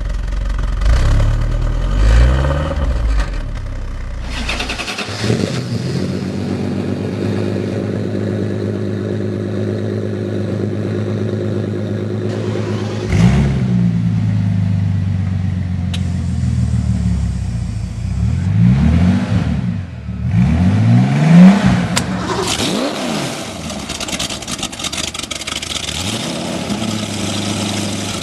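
Sports car engines idling and revved in short blips, the pitch sweeping up and falling back several times, across a few separate clips that change abruptly.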